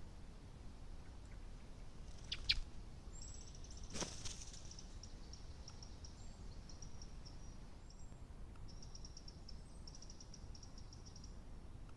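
Wild songbird singing: high, rapid trilled phrases running from about three seconds in until near the end, after two sharp call notes about two and a half seconds in. A single sharp click sounds about four seconds in.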